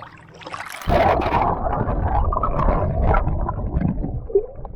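Water sloshing and gurgling over an action camera's microphone: a loud, muffled rumble that starts suddenly about a second in and fades near the end.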